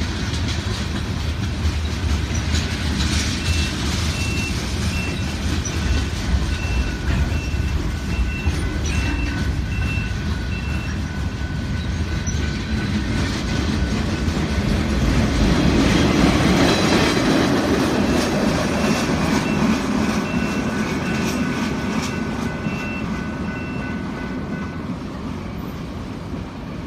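Freight train cars rolling past on steel rails: a continuous rumble with some wheel clatter that grows louder about two-thirds of the way through, then eases off. A faint high squeal pulses evenly in two stretches.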